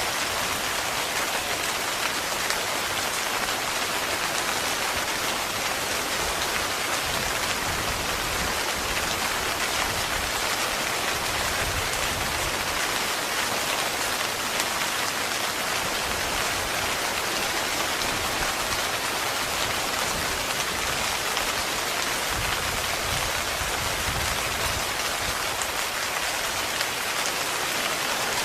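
Heavy, continuous rain drumming on a tent, a steady, even hiss with no let-up.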